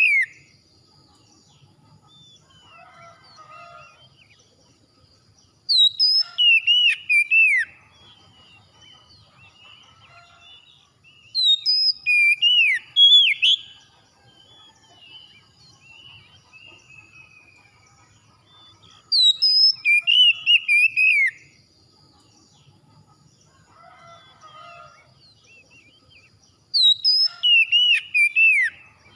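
Songbird song: loud, sweeping whistled phrases lasting two to three seconds, repeated about every seven seconds, four times, with faint softer calls in the gaps.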